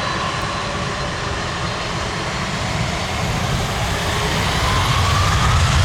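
Boeing 747-400's four Rolls-Royce RB211 turbofan engines running, with a whine that rises in pitch about four seconds in as the engines spool up for takeoff. The roar grows louder toward the end.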